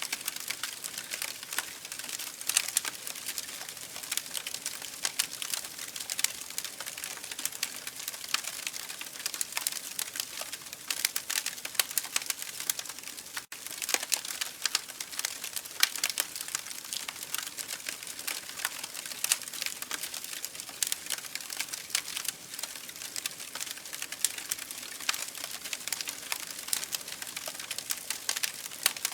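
Wood campfire burning, with a steady hiss and dense, irregular crackles and sharp pops from the burning wood. The sound cuts out for an instant about halfway through.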